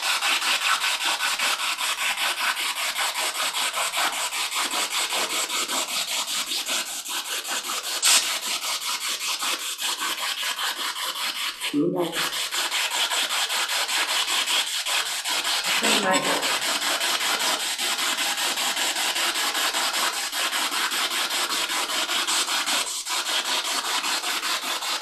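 Radio spirit box sweeping through stations: a steady hiss of static, chopped by the rapid, even sweep, with two short pitched fragments about twelve and sixteen seconds in.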